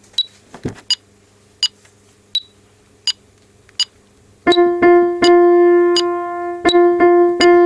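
Six sharp clicks about three-quarters of a second apart, like a count-in, then a piano playing the alto line of a choral piece: one note struck several times and held.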